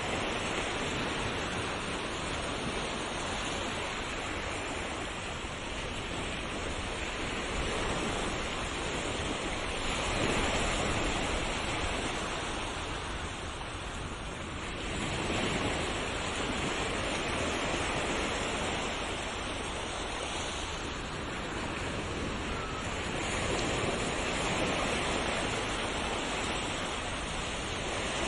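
Ocean waves breaking and washing on a shore, a continuous rush that swells and ebbs every few seconds.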